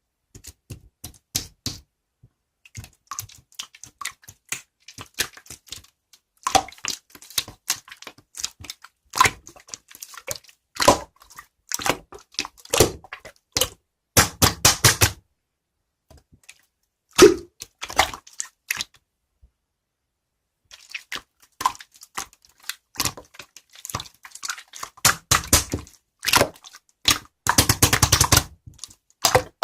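Slime being squeezed, stretched and pressed by hand, giving irregular runs of sharp clicks, pops and crackles in bursts, with short silent gaps between them.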